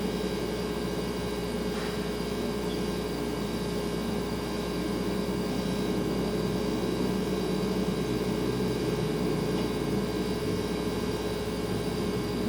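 Refrigerator compressor running with a steady hum, a clear steady tone over a soft noisy drone, growing slightly louder in the second half.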